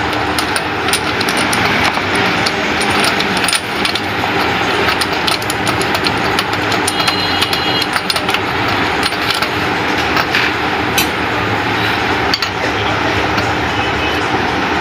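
Small portable generator's petrol engine running steadily, started after a new ignition coil and spark plug were fitted.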